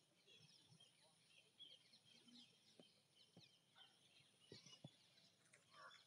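Faint chirping of several birds, many short calls overlapping, with a few soft knocks.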